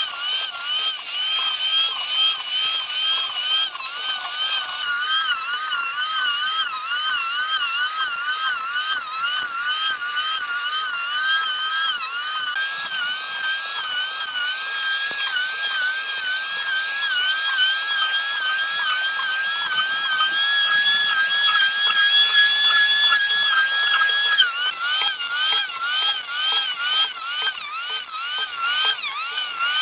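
Small electric power tool motor running with a high whine, its pitch dipping and recovering over and over as it bogs under load. The pitch holds steadier for a stretch of about twelve seconds in the middle, then starts wavering again.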